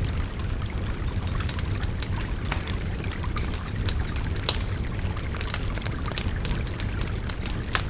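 Wood bonfire crackling with many short, sharp pops over the steady rush of a babbling river; one louder pop comes about halfway through.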